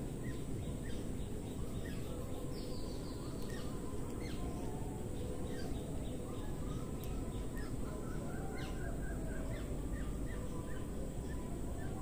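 Birds chirping and calling in short notes and quick falling chirps, with a quick run of repeated notes about two-thirds of the way through, over a steady low background rumble.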